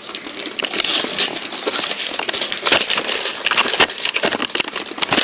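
Gift-wrapping paper being handled: a dense, steady run of crinkling and crackling made up of many sharp little clicks.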